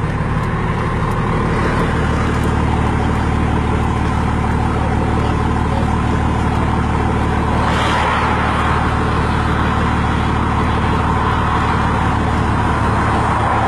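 Diesel freight locomotives running past with a loud, steady engine drone and rumble, growing louder over the first two seconds and then holding.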